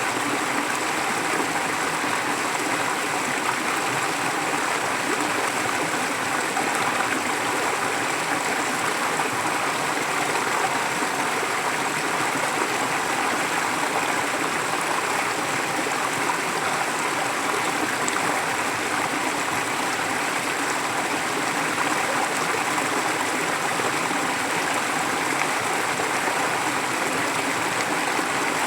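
Forest stream flowing steadily over rocks, a continuous even rush of running water with no changes.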